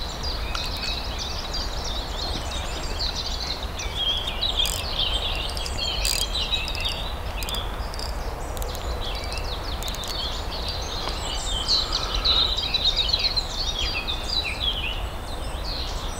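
Several small birds singing and chirping continuously, overlapping one another, over a steady low background rumble. A few faint sharp clicks come about five to seven seconds in.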